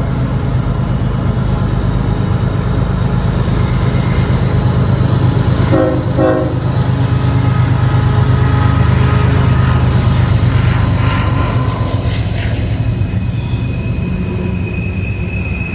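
Heavily loaded CSX diesel freight train passing with a steady low rumble that swells in the middle. A short horn note sounds about six seconds in, and thin high wheel squeal comes in near the end.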